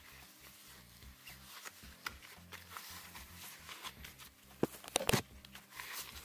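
Small metal chuck parts being handled on a bench: light scattered clicks and scrapes, with a quick run of sharper knocks about five seconds in.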